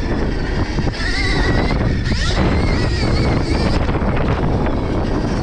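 Stark Varg electric motocross bike's motor whining, its pitch rising and falling with the throttle and climbing steeply a little past two seconds in, over the rumble of wind and tyres on dirt.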